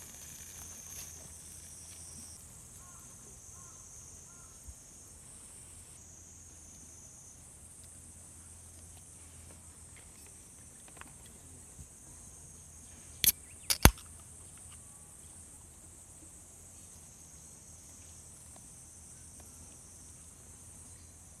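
Steady high-pitched trilling of insects, with three sharp clicks or knocks in quick succession about two-thirds of the way through.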